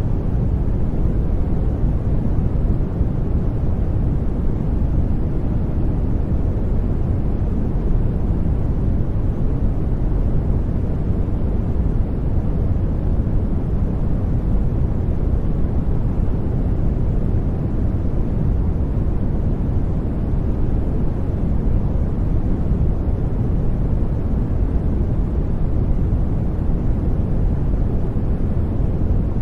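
Steady brown noise: a deep, even hiss, strongest in the bass and thinning toward the treble, unchanging throughout.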